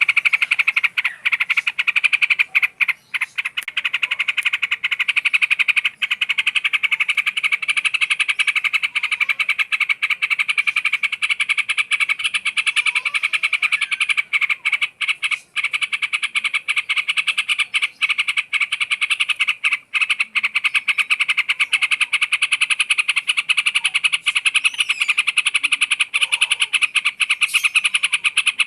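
A loud, continuous, rapidly pulsing buzzy chorus of calling animals, with brief dropouts and a few faint short bird-like calls underneath.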